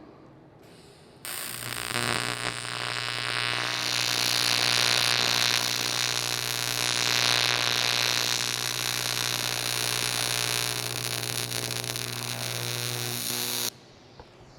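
AC TIG welding arc on aluminum: a steady electrical buzz over a bright hiss. It strikes suddenly about a second in, runs for about twelve seconds, and cuts off near the end as the arc is broken.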